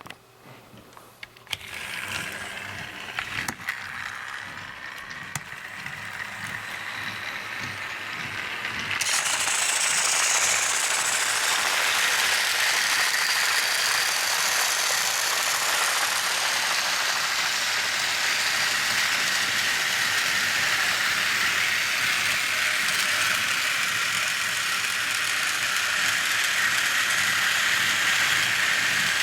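Battery-powered Tomy toy train motors running with a whirring gear noise. A few clicks come first, then the whirr builds, gets louder about nine seconds in and holds steady.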